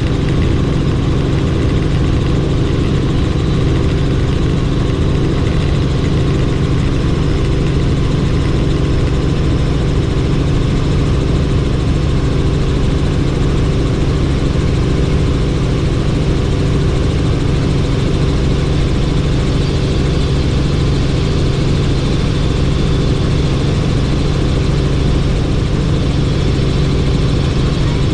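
Helicopter in flight: the steady, loud drone of its rotor and engine, holding an even hum throughout with no change in pitch.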